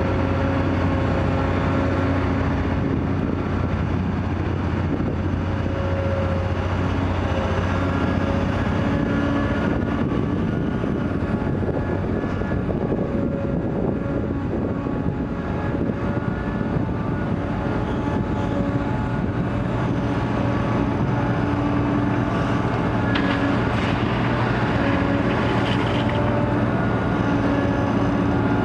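Komatsu PC800 hydraulic excavator's large diesel engine running while it loads a truck. The engine note holds steady but shifts in pitch now and then as the machine works, with a couple of faint knocks late on.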